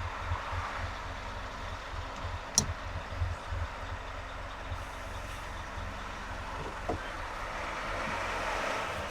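Road traffic noise heard while driving on a highway: a steady rush of tyres and engines over an uneven low rumble, with one sharp click about two and a half seconds in.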